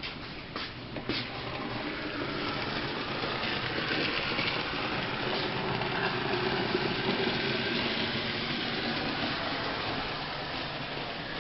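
Model Santa Fe Northern steam locomotive running along the layout track: a steady whir of its electric motor and gearing with metal wheels rolling on the rails, growing louder as it comes closer a couple of seconds in. A few sharp clicks sound in the first second.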